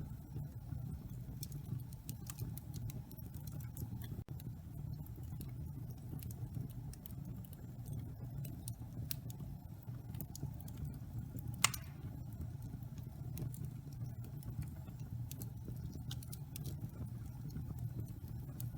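Wood fire in a fireplace crackling, with scattered small pops over a low steady rumble of flames and one sharper pop a little past halfway.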